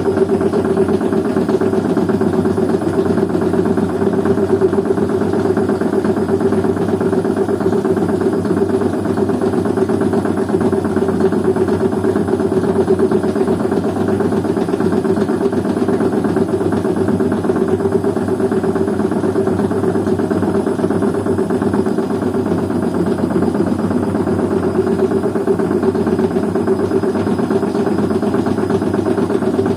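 Washing machine running with a loud, steady mechanical drone that stays unchanged throughout.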